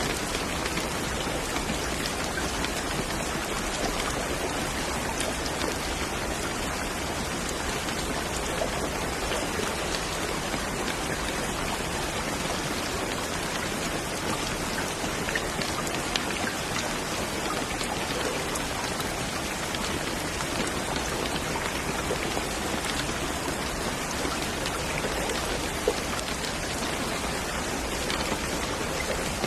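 Steady, even rainfall with dense drops pattering on a surface. One slightly louder drop stands out near the end.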